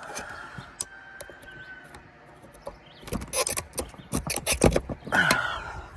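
Quick clattering and knocking of handled metal parts, starting about three seconds in and lasting a couple of seconds.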